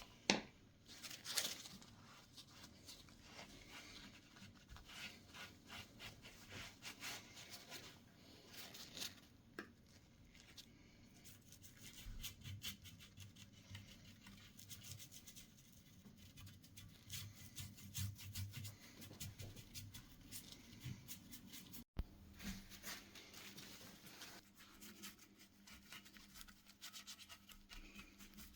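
Faint scratching and rubbing with many small, irregular clicks and ticks, as of hand work on a surface. The sound drops out for an instant about two-thirds of the way through.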